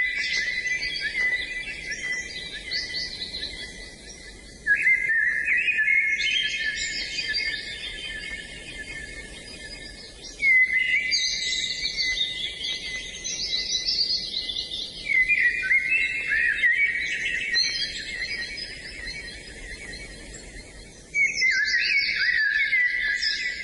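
Songbirds singing in long, rapid, twittering phrases. A new loud phrase starts abruptly every five or six seconds, and each one tapers off over several seconds.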